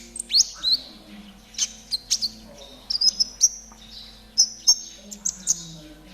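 Kolibri ninja sunbird singing a high, rapid 'trotol' song: sharp chirps and quick swept notes delivered in short clusters with brief pauses between them.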